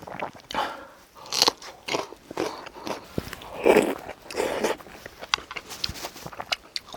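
Close-up eating sounds: a person spooning up and chewing rice soaked in seonji haejangguk, a beef-bone soup with congealed cow's blood, in irregular short bursts.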